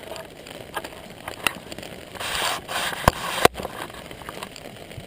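Handling noise on a handheld camera: scattered clicks and a brief rustle, then two sharp knocks about three seconds in.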